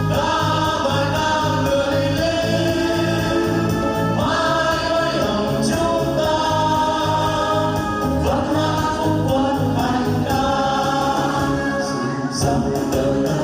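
A group of singers performing a Vietnamese patriotic soldiers' song together in chorus, over musical accompaniment with a steady, even bass beat.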